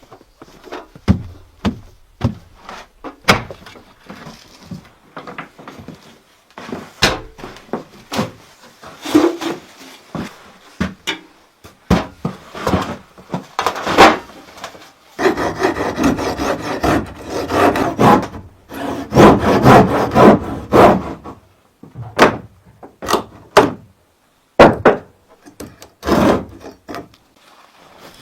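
Hand work on wood: scattered knocks and clatter of timber, with a longer stretch of rasping, rubbing strokes about halfway through.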